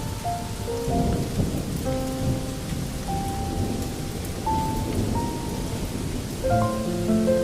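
Steady rain with a low rolling thunder rumble, under a slow, soft melody of long held notes that thins out in the middle and comes back near the end.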